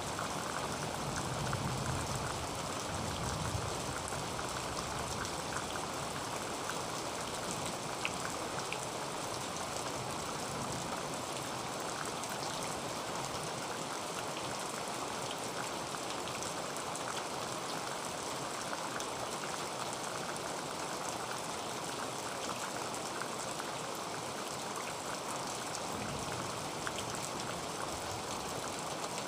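Heavy rain on a tin roof: a steady, dense patter of drops on metal, with scattered louder single drops standing out.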